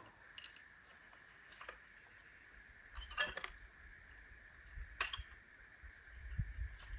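Light clinks and rattles of camp gear being handled while a tarp is pitched: a short cluster of sharp clicks about three seconds in and one more about two seconds later.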